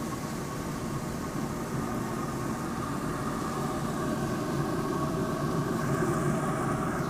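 Steady rumbling hum of a Pit Boss grill running with chicken halves cooking on it, growing slightly louder near the end.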